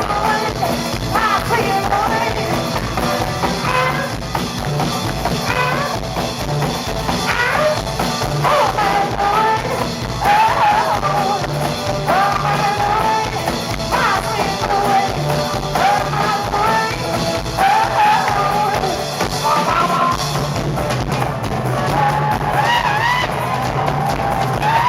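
Live band music with drums and a wavering, bending melody line over a steady beat.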